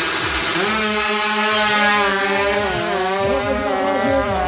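Two-stroke Kawasaki Ninja drag bike engine revving up sharply about half a second in, then holding a high, steady pitch at high revs, wavering slightly.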